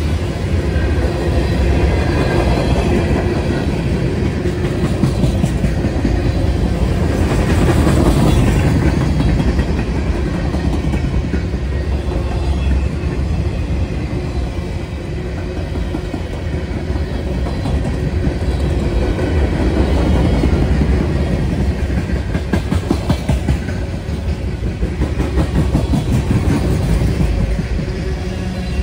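Freight train cars (covered hoppers, boxcars and tank cars) rolling past close by. There is a steady loud rumble of steel wheels on rail, with rapid clickety-clack as the wheels cross the rail joints.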